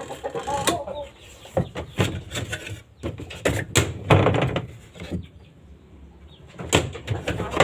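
Chickens clucking in the background, a string of short calls, with a few sharp knocks mixed in.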